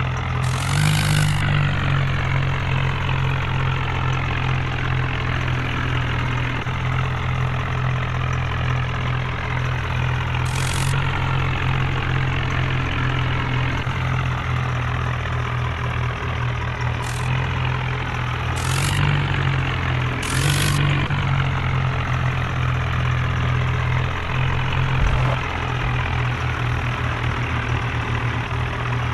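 John Deere tractor's diesel engine running steadily at an even speed, with a few short high hissing sounds over it.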